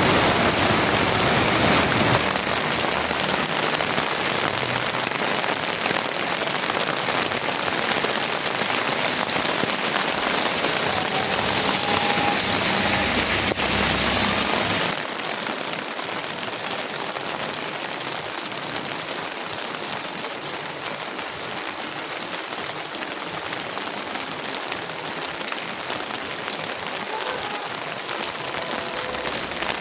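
Heavy rain falling, a dense steady hiss that drops a step in level about halfway through.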